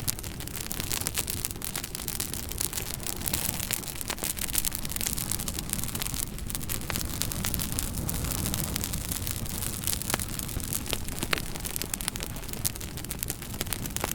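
Wood fire in an open fire pit burning steadily, with a continuous hiss and rumble and frequent irregular sharp crackles and pops.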